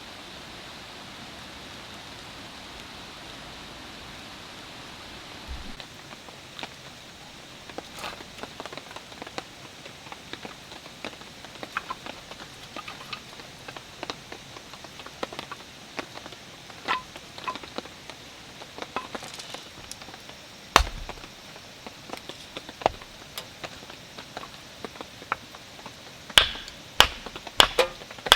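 Steady light rain with scattered drips and taps. A run of louder, sharp clinks comes near the end.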